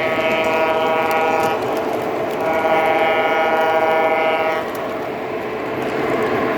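Sound-equipped model diesel locomotive blowing its horn in two long blasts, the first ending about a second and a half in and the second held for about two seconds, over a steady running noise.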